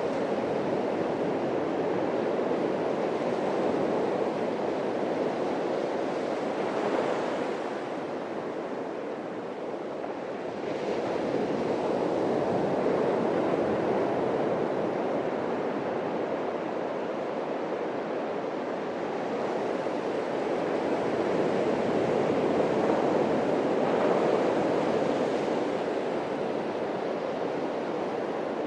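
Atlantic surf breaking on a sandy beach: a continuous rushing wash of waves that swells and ebbs, with louder breakers about a quarter of the way in and again near the end.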